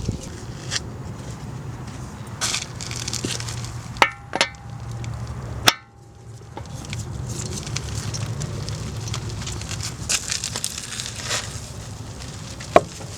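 Metal tools and parts clinking and scraping, with a few sharp metallic strikes that ring briefly, over a steady low hum.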